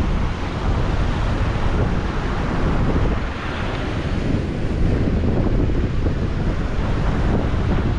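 Wind buffeting the microphone with a steady low rumble, over the wash of sea surf.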